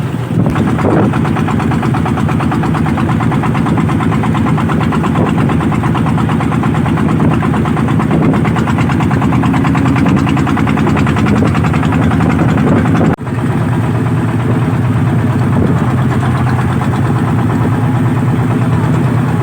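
Engine of a tractor-drawn iron-ox cart running steadily with a fast, even chug, under strong wind on the microphone. The sound drops out for an instant about 13 seconds in.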